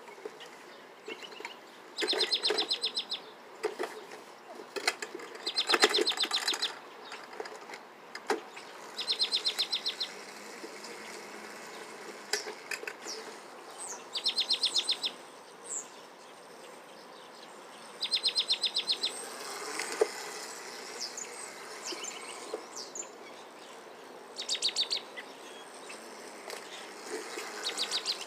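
High, rapid trills, each about a second long, repeated every few seconds, with scattered short chirps in between: outdoor birds and insects.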